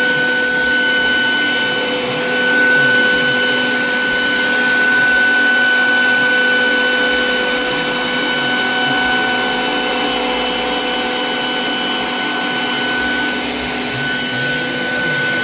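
Vacuum hold-down table pump of a Grizzly G0932 4x8 CNC router running steadily: a constant whine over rushing air.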